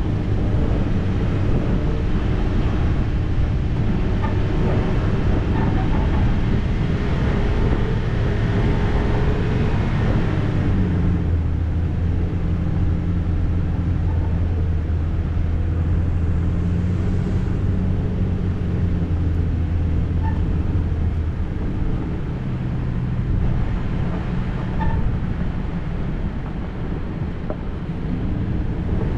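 Vehicle engine running while driving off-road, with road and body noise. About eleven seconds in, the engine note drops to a lower, steadier pitch and the rougher noise eases.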